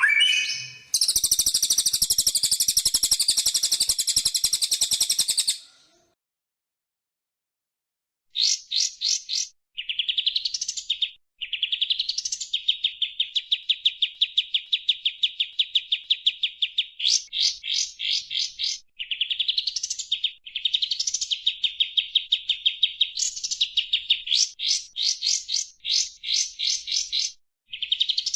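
Songbird song: a dense, high chattering phrase for the first few seconds that stops abruptly, a short silence, then repeated rising sweeps alternating with rapid trills for the rest.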